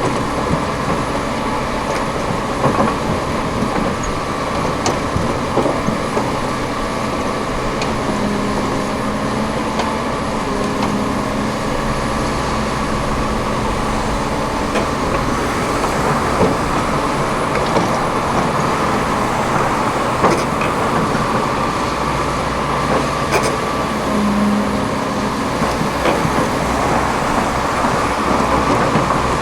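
Heavy diesel excavators and a truck working: engines running steadily under load, with scattered short metallic clanks.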